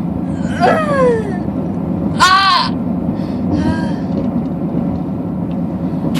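A young woman in a sickle cell pain crisis moaning and crying out in pain three times: falling wails, the second the highest and loudest. Behind them is the steady road rumble inside a moving car.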